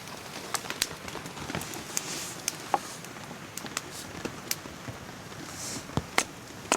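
Campfire crackling in the rain: irregular sharp pops and clicks over a steady hiss of rain, with a heavier knock about six seconds in.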